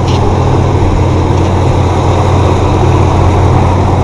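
1991 Chevy S10 Blazer's engine idling steadily, a constant low hum.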